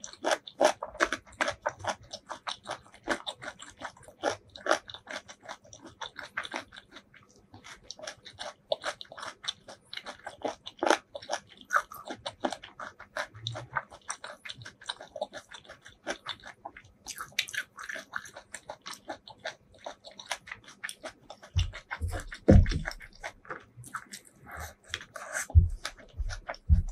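Close-miked chewing of a mouthful of food with the mouth closed: dense wet mouth clicks and soft crunches. Near the end come a few low thumps as more food is scooped up by hand from the board.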